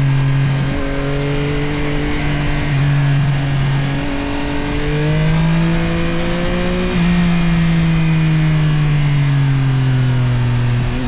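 Yamaha CP3 890 cc inline-three engine of a Tracer 9 GT+ motorcycle pulling at steady revs with two brief breaks early on. Its pitch climbs around the middle, then falls slowly over the last few seconds as the bike slows, with wind and road noise underneath.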